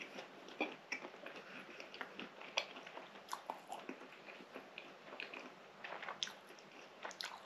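Close-up chewing of a soft baked fatayer pastry with chicken filling, with irregular wet mouth smacks and clicks.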